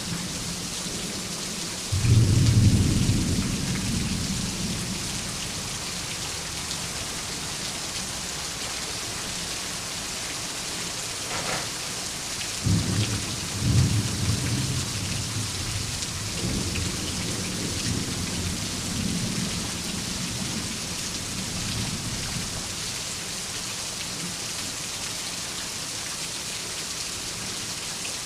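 Steady rain falling throughout, with two rolls of thunder. A sudden clap about two seconds in is the loudest moment and rumbles away over a few seconds; a second clap a little under halfway through rumbles on for several seconds more.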